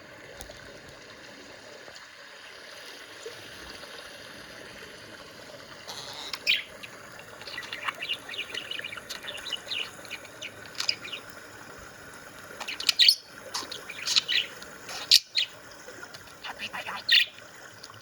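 Budgie chirping and chattering in short bursts, starting about six seconds in and getting busier, with a few sharp clicks near the end.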